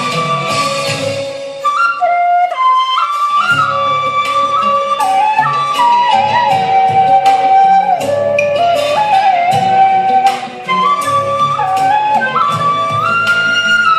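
Vietnamese bamboo flute (sáo trúc) playing a slow melody of held notes and small stepwise turns, over a backing accompaniment with a low bass part that drops out briefly about two seconds in.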